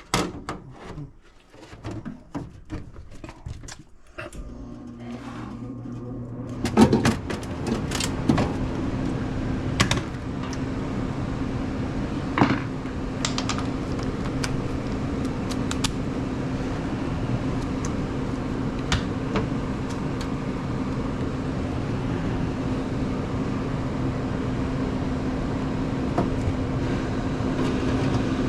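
Furnace blower motor, apparently the replacement, running with a steady even hum after a few knocks and clicks in the first seconds. The hum stops near the end.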